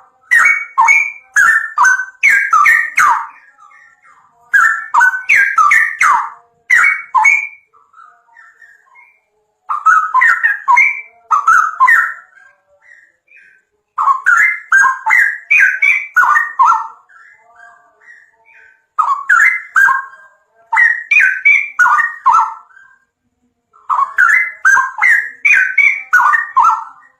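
A songbird singing loud phrases of quick, jumping notes, six phrases of two to four seconds each with short pauses between them.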